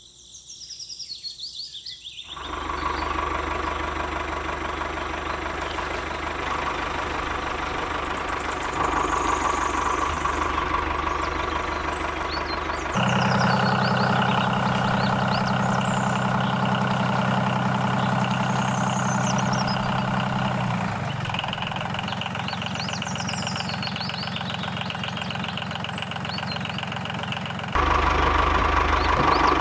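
Tractor-type diesel engine running steadily with a knocking idle, starting about two seconds in and switching abruptly to a different pitch and tone several times. Birds chirp faintly over it.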